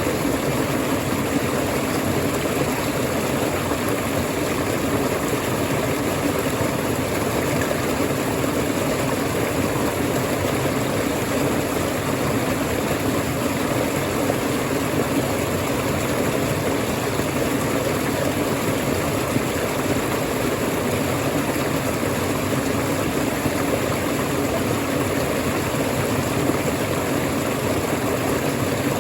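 Waterfall: water pouring and splashing in a steady, unbroken rush with no breaks or changes.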